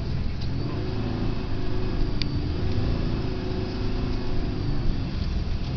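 Ford pickup truck's engine running under throttle with a heavy low rumble. Its pitch climbs over the first few seconds and eases back down near the end.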